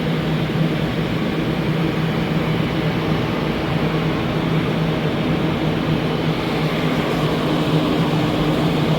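Several high-powered fans running together, set out to dry water damage: a loud, steady rush of air with an even low hum.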